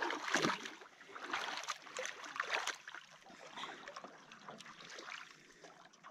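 Water splashing and sloshing around a canoe as paddles dip in and it pushes off from shore: an uneven run of splashes, loudest about half a second in and growing fainter.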